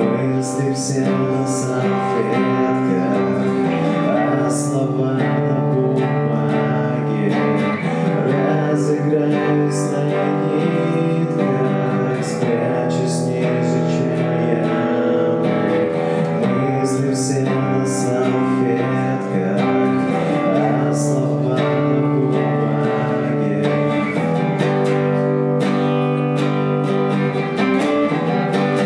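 Acoustic guitar strummed steadily while a man sings a song.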